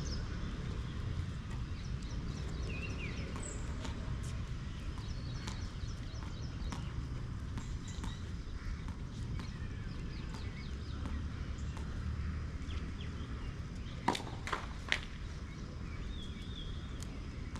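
Birds chirping over a steady low rumble, with three sharp knocks in quick succession about fourteen seconds in from a tennis ball striking the court or racket.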